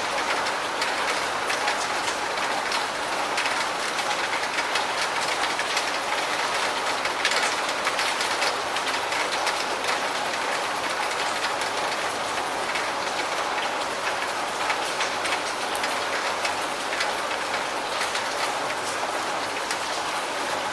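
Steady rain falling, with many individual drops ticking against a constant hiss.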